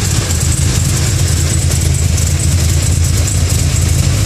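Cammed 6.2-liter V8 idling with the hood open, a steady, choppy low idle. The engine is still cold and is expected to idle smoother once it warms up.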